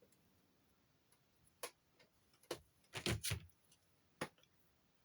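A few faint, scattered clicks and light knocks of handling, about five over a few seconds, with near quiet between them.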